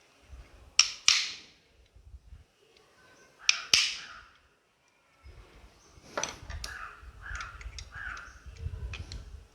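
Bench handling of a mixer motor's metal parts and tools: two pairs of sharp clicks about a second in and again past three seconds, then from about halfway a run of lighter clicks and knocks with rubbing handling noise.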